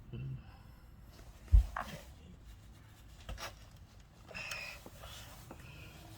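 A few scattered handling clicks and knocks, with one heavier low thump about one and a half seconds in.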